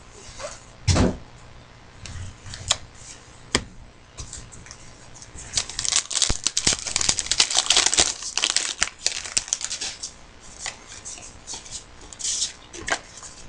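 Trading card pack wrapper crinkling and tearing as a pack is opened and cards are handled. A few sharp knocks come in the first four seconds, then a dense stretch of crinkling in the middle, fading to scattered crackles.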